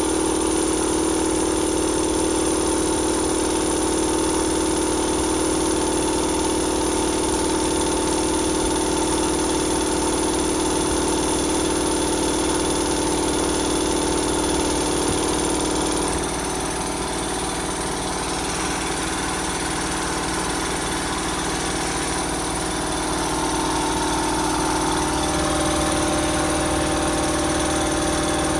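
Twin-cylinder reed-valve air compressor running steadily on its first test after a reed valve replacement, building tank pressure past 60 psi. Its sound drops slightly and changes tone a little past halfway, then picks up again near the end.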